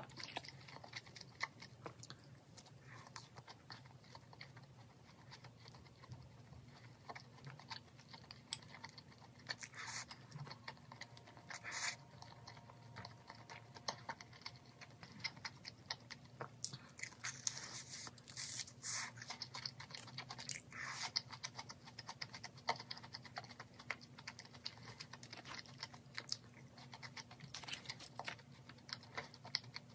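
Close-miked chewing with frequent crisp crunches from bites of crispy fried chicken and fries, scattered irregularly throughout.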